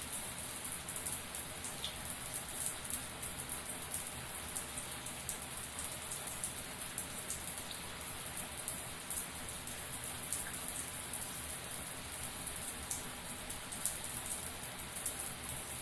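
Shower water spraying steadily, a dense patter of drops over an even hiss.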